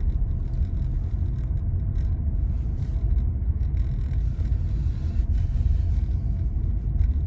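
A car driving along, a steady low rumble of road and engine noise.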